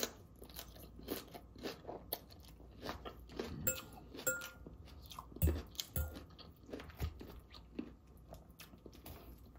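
Crunching and chewing of a raw salad of romaine lettuce and red cabbage: an irregular string of crisp crunches between bites.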